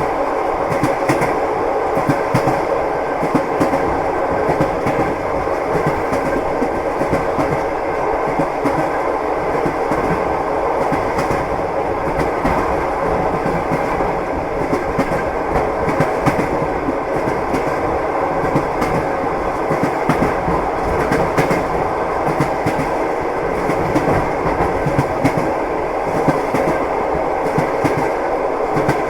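Train wheels clacking over rail joints with a steady rumble of the moving train, clicks coming often and unevenly throughout.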